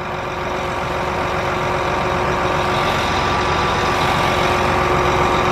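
Heavy farm tractor engine running steadily, gradually growing louder.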